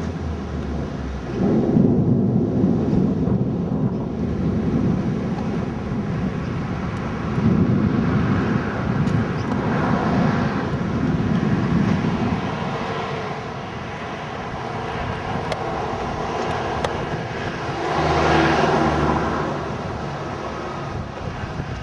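Gusty storm wind on the microphone, a low rushing noise that swells and eases in several long surges.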